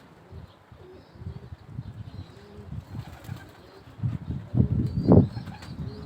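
Domestic flying pigeons at their loft, with faint cooing, while strong gusty wind buffets the microphone in low rumbles that grow louder near the end.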